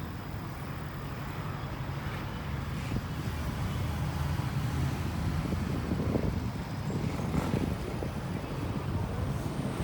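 Road and engine noise of a moving car heard from inside the cabin: a steady low rumble that grows a little louder over the first few seconds.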